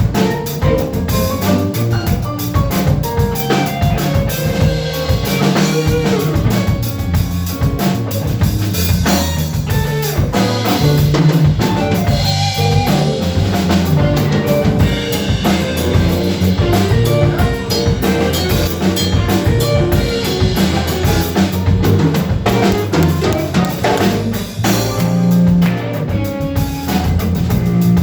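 Live band playing an instrumental funk tune, with the drum kit's snare and bass drum to the fore over a moving bass line.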